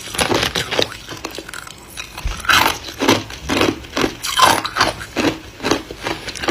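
Ice being chewed close to the microphone: repeated crunches, sparse and softer for about the first two seconds, then steady at about two a second.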